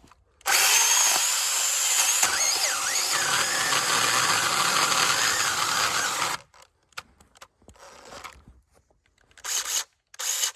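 8-inch mini cordless chainsaw running and cutting into dead red oak wood for about six seconds, then stopping; two brief bursts of the saw follow near the end.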